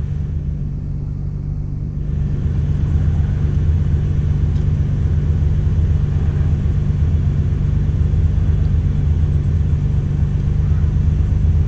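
Nissan GT-R R35's twin-turbo V6 idling steadily, heard from inside the cabin as a low hum that gets a little louder about two seconds in.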